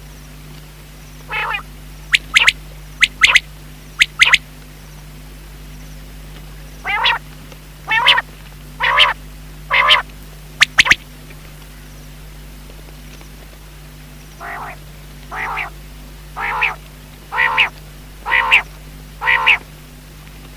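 Common quail calling: short pitched notes repeated about once a second in three bouts, the last bout growing louder, over a steady low hum.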